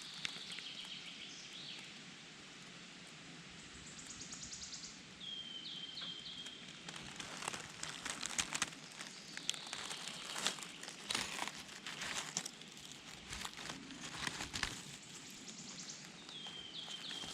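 Footsteps and rustling in the forest-floor litter, with a run of sharp cracks and crackles in the middle, as someone moves through the undergrowth. A songbird sings short, high phrases three times.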